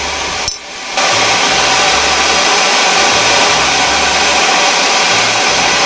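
Forge air blower running with a loud, steady rush, picking up about a second in as the steel is heated for punching.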